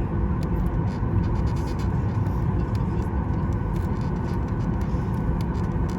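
Steady low rumble inside the cabin of a Boeing 737 MAX 9 airliner taxiing on the ground, with faint ticks and rattles over it.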